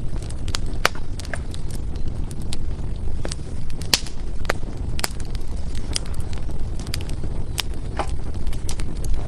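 Firewood burning in a fireplace: irregular sharp crackles and pops over a steady low rumble of the flames, with louder pops about four seconds in and near the end.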